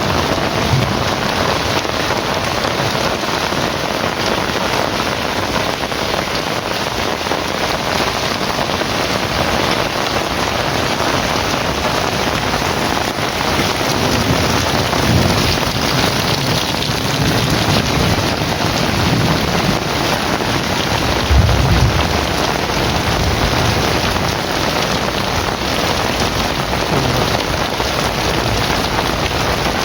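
Heavy rain pouring steadily, with low rolls of thunder; the loudest thunder rumble comes about two-thirds of the way through.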